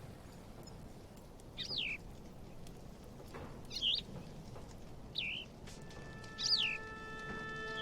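Bird calls: four short whistles, each falling sharply in pitch, spaced one to two seconds apart over a faint background hiss. A held music chord fades in near the end.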